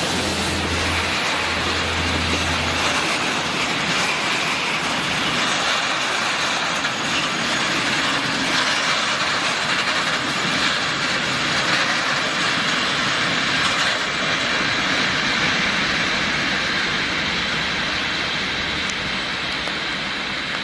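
Covered freight wagons of a goods train rolling past over the rails, a steady rumble of wheels on track that eases off a little near the end as the train draws away.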